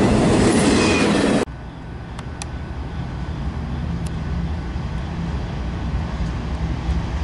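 An intermodal freight train's container well cars pass close by with a loud rumble of wheels on rail, which cuts off abruptly about a second and a half in. After that, a distant approaching freight train gives a low, steady rumble that slowly grows louder, with a few faint clicks.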